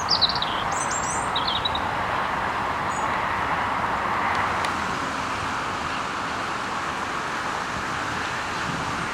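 A few short, high bird calls that fall in pitch in the first two seconds, over a steady background noise of the kind made by wind or distant road traffic.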